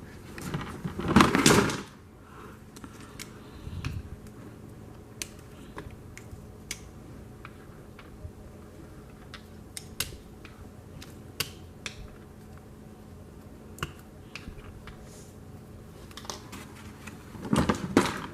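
Small plastic toy traffic cones being handled and set down on a surface, giving scattered single light clicks, with a louder rustling handling noise about a second in and again near the end.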